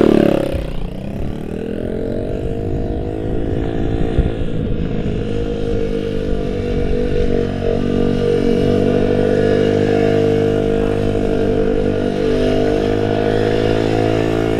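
Dirt bike engine revving up over the first couple of seconds, then held at steady, slightly wavering revs as the bike is leaned over through a long turn.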